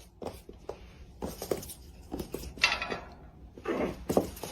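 Light, irregular clicks and taps on a hard surface, with a few louder knocks and scuffs in the second half.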